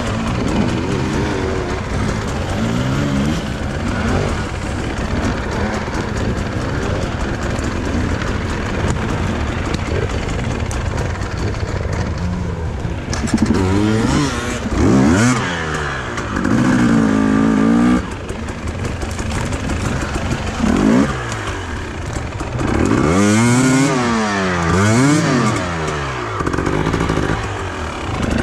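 Enduro dirt bike engine being ridden off-road, the revs rising and falling again and again as the throttle is worked, with sharper rev swings about halfway through and again near the end.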